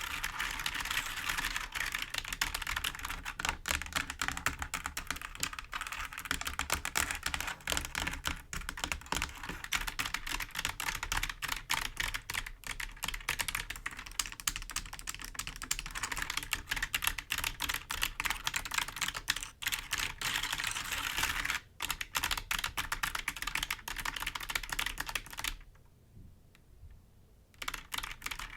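Fingers tapping and scratching on computer keyboard keys: a dense, continuous run of clicks that pauses for about two seconds near the end.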